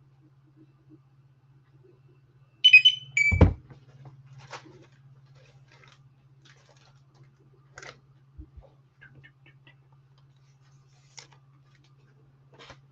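Two short, high electronic beeps about half a second apart, followed at once by a loud thump, then faint clicks and rustling over a steady low hum.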